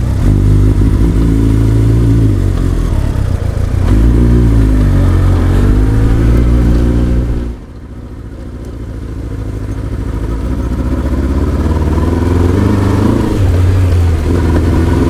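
Motorcycle engine accelerating under way, its revs rising and falling repeatedly as it pulls through the gears. Halfway through the level drops suddenly, then builds steadily again as the engine pulls harder.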